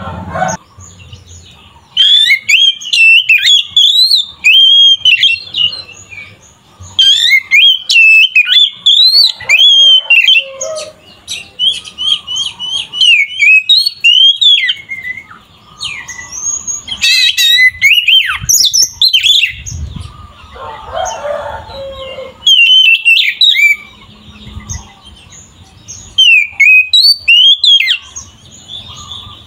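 An Oriental magpie-robin (kacer) in full, loud song. It sings phrases of a few seconds made of rapid, varied whistled notes that sweep up and down, with brief pauses between phrases.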